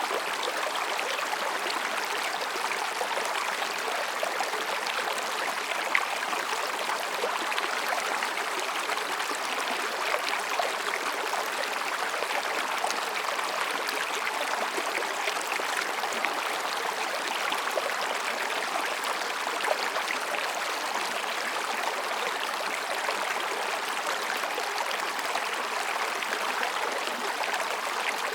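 Mountain stream babbling steadily over and between rocks, with small splashes and gurgles.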